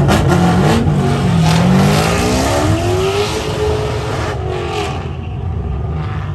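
Car engine on an autocross course: the pitch dips, then climbs steadily as the car accelerates hard, holds, and fades away about five seconds in as the car moves off.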